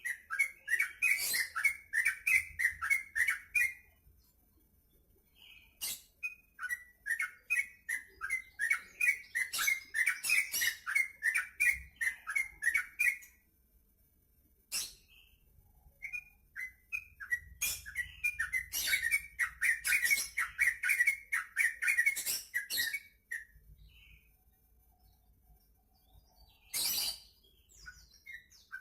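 Yellow-vented bulbul (trucukan) singing actively: three long phrases of rapid chattering notes separated by pauses of a few seconds. A short noisy burst comes near the end.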